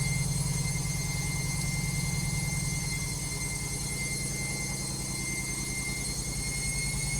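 Logik washing machine spinning with an unbalanced load: a fast, even, pulsing low rumble from the drum, easing slightly in the middle and building again near the end.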